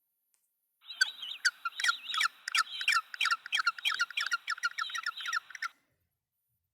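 Penguin calls: a fast run of short, high squeaky chirps, about five a second, starting about a second in and lasting some five seconds.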